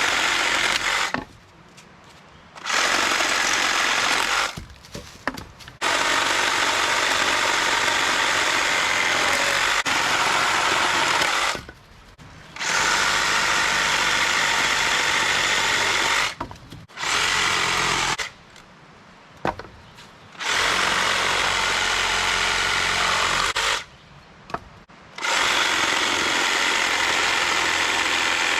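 Power saw cutting firewood, running in stretches of a few seconds with short pauses between cuts.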